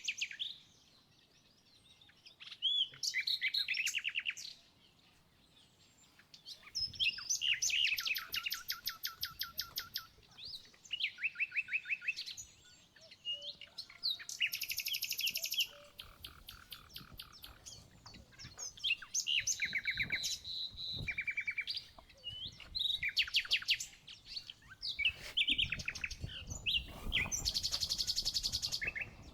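Songbirds singing: repeated short phrases of rapid trills and chirps, each a second or two long, with brief pauses between them.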